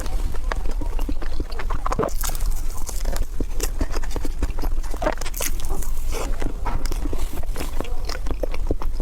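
Close-up eating: irregular crisp crunches and bites of chewing, over a steady low hum.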